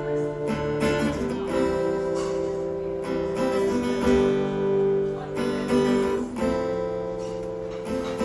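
Acoustic guitar strummed as the introduction to a song, steady chords changing every second or two.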